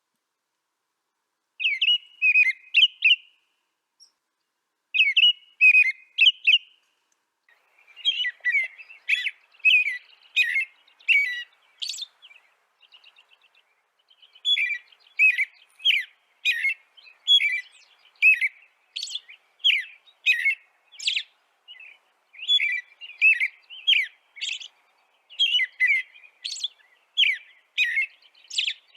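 A bird chirping in quick, repeated high chirps over a silent background. It starts with two short phrases, then from about eight seconds on keeps up a near-continuous run of several chirps a second.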